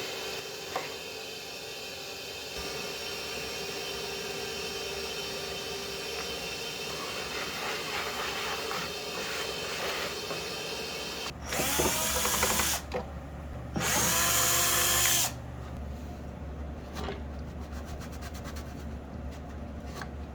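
Power drill running in two short bursts of about a second and a half each, its motor whine rising as it spins up, with quieter handling sounds around them.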